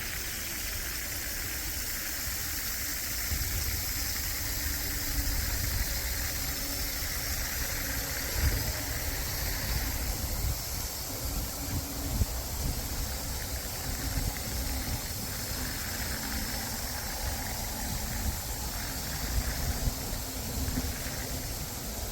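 Wind buffeting the microphone in uneven low gusts over a steady high hiss.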